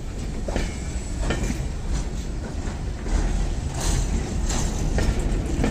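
Two slow-moving freight trains passing close by: a steady low rumble of wagon wheels on the rails, with irregular clacks and knocks as the wheels roll over the track.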